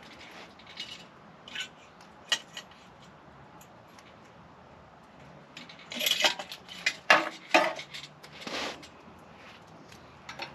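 Clinks and clatter of small hard objects, such as tools or metal parts, being handled: a few separate clicks at first, then a dense run of loud clatter about six seconds in that lasts some three seconds.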